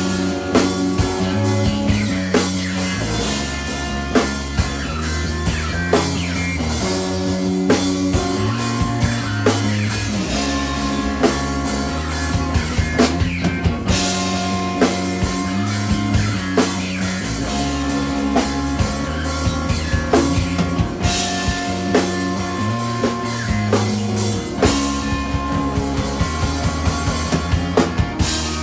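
Live instrumental rock played by a three-piece band: sustained guitar and bass notes over a steady drum kit beat, with no singing.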